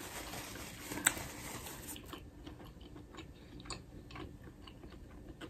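Quiet chewing with faint mouth clicks and smacks, a few sharper clicks standing out about one, two and three and a half seconds in.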